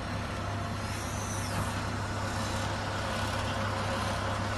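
Steady low drone of a vehicle's engines and running machinery, with a faint high whine that rises and falls about a second in.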